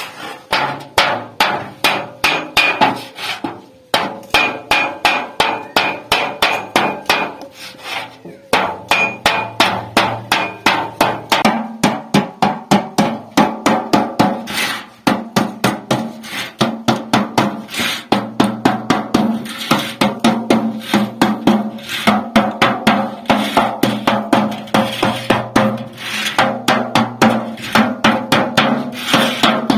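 Hammer beating refrigerator sheet steel as it is shaped into a pot: rapid, even blows about three a second, with the metal ringing, broken by a few short pauses.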